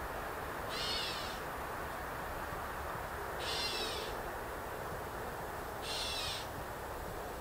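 A bird calls three times, one short, high, slightly down-curving call about every two and a half seconds, over a steady low background noise.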